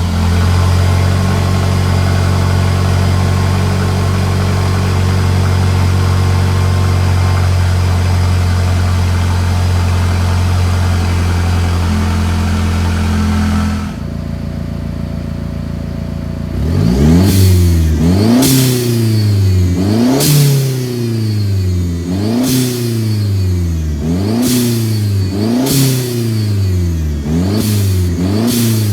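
Turbocharged Mercedes C250 engine through a nearly straight-piped exhaust (cutout bypassing the stock system), fast-idling steadily just after a cold start. About 14 seconds in, the idle drops lower, and from about 17 seconds on the engine is blipped repeatedly, about once a second. Each rev rises and falls with a short hiss at the top.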